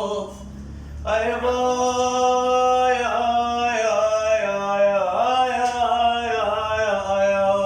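A man singing without accompaniment in Arabic vocal style. After a short breath about a second in, he holds one long melismatic line, the pitch bending and turning in ornaments, until it ends near the close.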